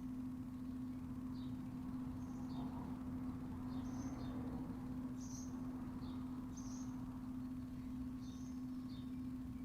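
Small birds chirping in short, high, scattered chirps over a steady low hum.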